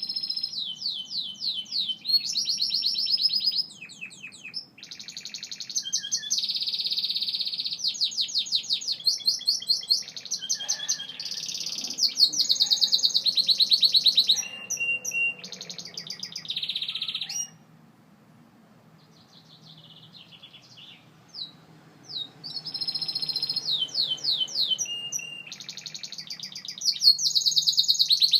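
Gloster canary singing: fast rolling trills and rapidly repeated notes in phrases of a few seconds each. A pause of about four seconds falls past the middle, then the song starts again.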